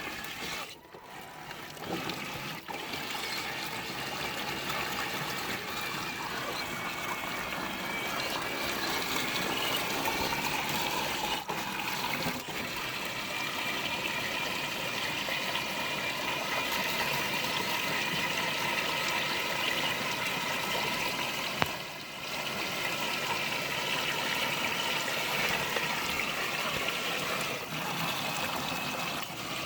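Electric motors of radio-controlled trucks whining and changing pitch as they churn through thick, wet mud, with the slop and gurgle of water and mud around the tires.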